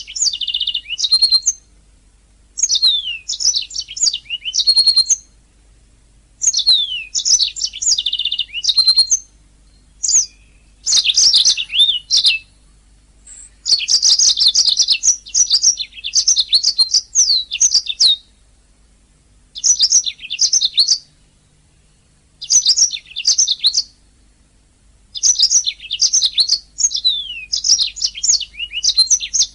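Domestic canary singing: phrases of rapid high trills and quick downward-sweeping notes, each lasting one to four seconds, with short pauses between them.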